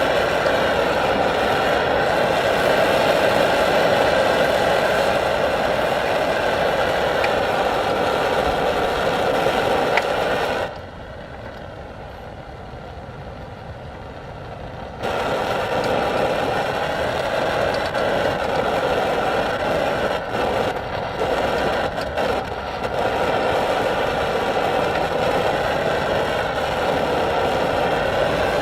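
Phoebus 725 pressurized liquid-fuel camping stove burning at full flame with a steady roar. A little over a third of the way in, the sound drops sharply and goes duller for about four seconds, then comes straight back to full.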